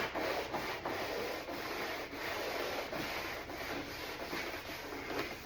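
Emery cloth rubbed by hand over a plastic door panel in repeated strokes, scuffing the factory finish so that paint will grip.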